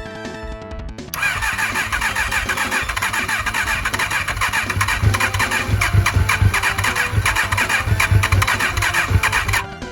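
Electric starter cranking the Kawasaki Balius's engine for about eight seconds, an attempt to start it on freshly refitted carburettors. The cranking begins about a second in with uneven low pulses underneath and cuts off suddenly near the end.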